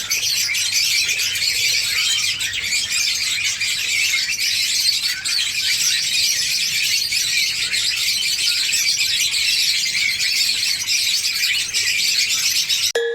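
A flock of pet cage birds chirping and chattering continuously, many high calls overlapping.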